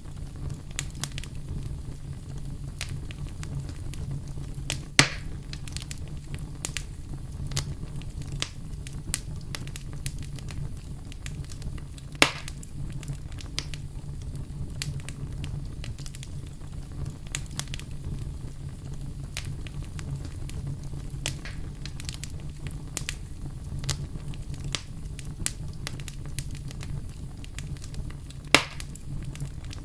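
Wood fire crackling, with frequent small snaps over a steady low rumble of burning. Three louder sharp pops stand out: about five seconds in, about twelve seconds in, and near the end.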